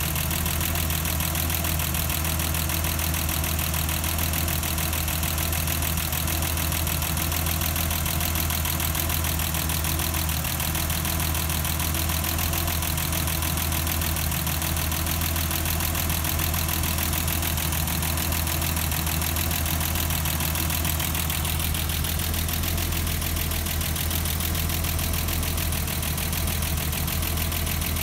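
A 1989 BMW 325i's M20B25 inline-six engine idling steadily.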